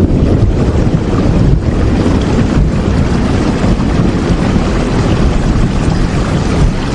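Steady rain, an even dense hiss with a deep low rumble underneath and no separate drops standing out.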